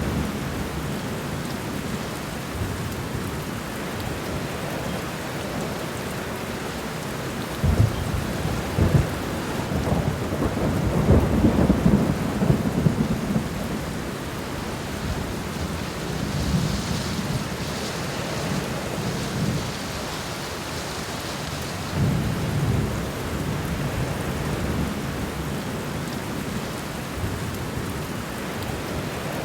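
Steady rain falling on the ground in a garden, an even hiss throughout, with low rumbles swelling up now and then, the loudest from about eight to thirteen seconds in.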